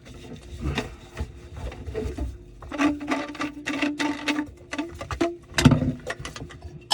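Plumbing parts being handled and fitted: irregular clicks, knocks and scraping. A short squeaky tone comes in the middle, and a sharper knock near the end.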